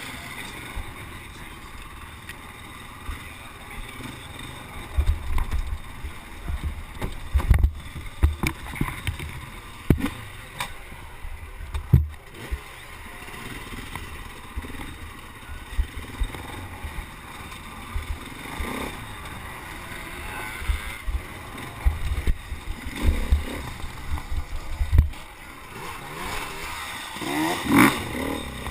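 A race vehicle running over a rough course: a low rumble broken by many irregular knocks and jolts.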